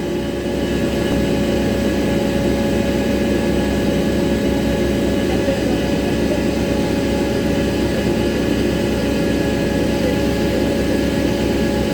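Airbus A321-231 jet whine on the ramp: a loud, steady drone of several unchanging tones over a low rumble, rising slightly about a second in.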